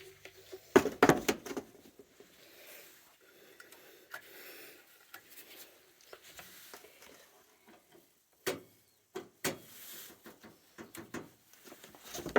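Handling noises from someone working on equipment by hand: a quick cluster of knocks and rattles about a second in, then quiet rubbing and a few scattered clicks.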